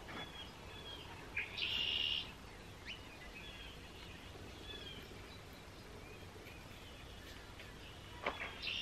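A songbird singing twice, about seven seconds apart. Each song is a quick rising note running into a harsh buzzy phrase, with faint short chirps in between.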